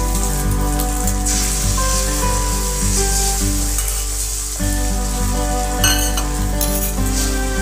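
Beaten eggs sizzling as they fry in oil in an aluminium kadai, stirred with a metal spatula, with a few sharp scrapes of the spatula about six seconds in.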